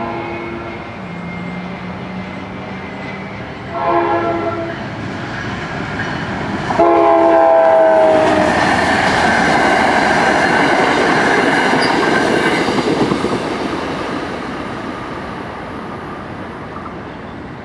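NJ Transit commuter train sounding its horn at the grade crossing: a short blast, then a longer, louder one. The train then passes at speed with a loud rush and rumble of wheels on the rails, fading as it goes by.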